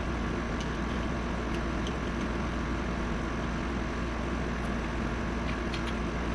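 Steady low mechanical hum of something running, with a few faint light ticks.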